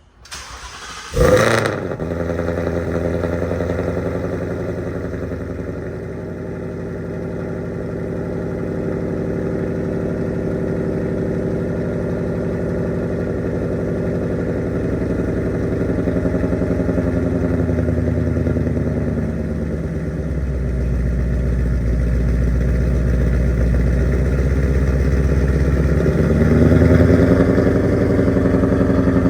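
A 2022 Mustang GT's 5.0 V8, fitted with long-tube headers and active exhaust, starts up about a second in with a loud flare and settles into a steady idle. Near the end the idle drops lower, then rises again.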